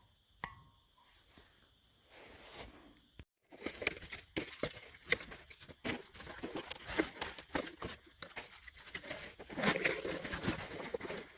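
Plastic trash bag and litter crinkling and rustling, with many small crackles, as it is handled and stuffed. It starts about three seconds in after a quiet stretch.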